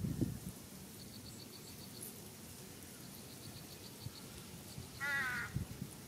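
A single harsh, wavering bird call, crow-like, about five seconds in and lasting about half a second. Under it runs a faint, rapid high ticking in short runs, and there are low thumps near the start.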